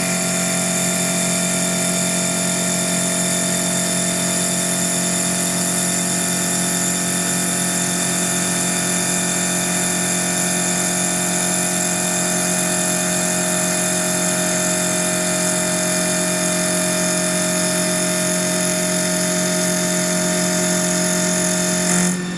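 CNC wood lathe running steadily: a constant machine hum with a high-pitched spindle whine. The sound changes abruptly near the end.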